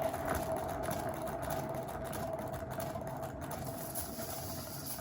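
Canvas spinner turntable whirring as it spins freely under a paint-poured canvas, with a steady hum that slowly grows quieter as it coasts.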